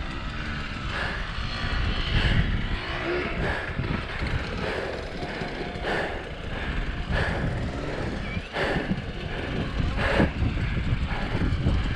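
Off-road motorcycle engine running at low revs, with wind buffeting the microphone. A knock sounds about once a second.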